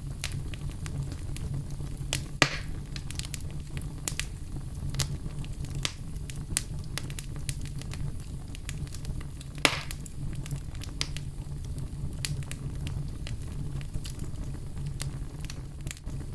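Wood fire burning in a fireplace: a steady low rumble of flames with frequent small crackles. Two louder pops stand out, one a couple of seconds in and one just past the middle.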